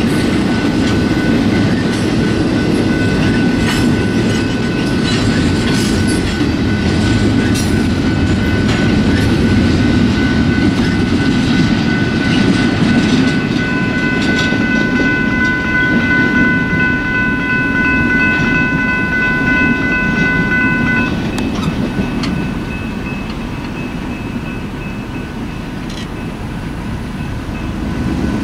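Intermodal freight cars rolling past a grade crossing: a steady rumble with scattered clicks from the wheels on the rails. A steady high whine grows over the middle part and stops about three quarters of the way in, as the end of the train passes and the rumble fades.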